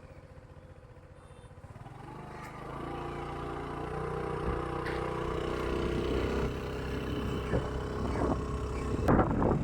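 A motor vehicle's engine running and growing steadily louder, starting about two seconds in, as if it is approaching or pulling away under power.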